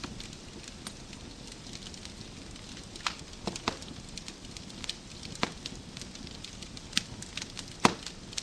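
Wood fire in a fireplace crackling, with scattered sharp pops from the burning logs over a steady low hiss of the flames; the loudest pop comes near the end.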